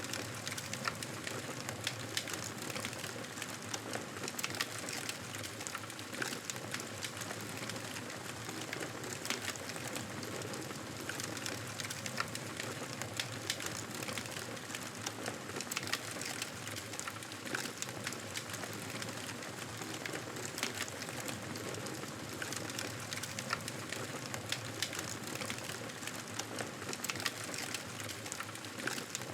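Campfire burning: a steady hiss of flames with frequent sharp crackles and pops from the burning wood, coming irregularly throughout.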